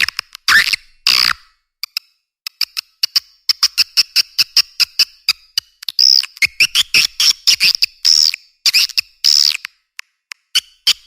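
Swiftlet lure call: a recording of swiftlets' rapid dry clicks and short high chirps that rise and fall, in dense strings, played to draw swiftlets into a nesting house. A run of quick even clicks comes about three seconds in, and from about six seconds in the loud arched chirps crowd together.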